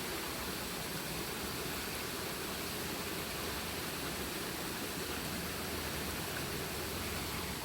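Steady, even hiss-like noise with no distinct events.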